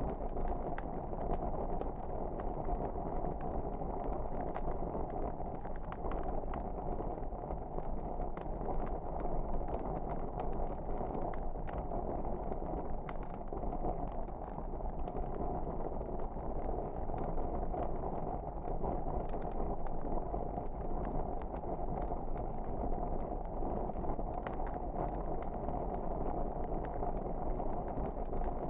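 Wood fire burning in a fireplace: a steady low rush of flames with frequent small crackles and pops throughout.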